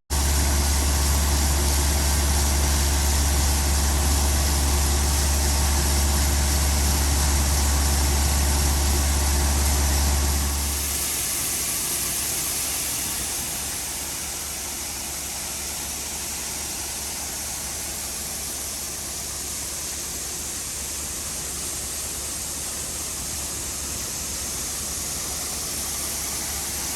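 A heavy engine running steadily at idle, with a strong low drone. About eleven seconds in the drone drops away, leaving a quieter steady mechanical hum.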